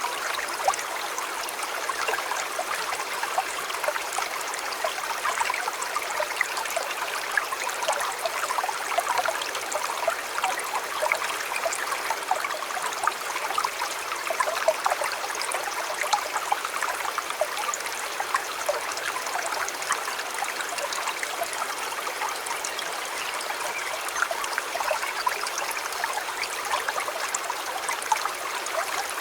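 River water flowing steadily: a continuous babbling rush with many small trickles and splashes.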